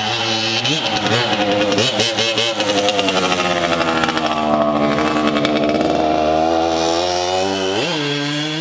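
1981 Suzuki RM125 two-stroke single-cylinder engine running hard while the bike is ridden through the gears. The pitch sweeps up sharply about a second in and again near the end, with a steadier, slowly climbing stretch between.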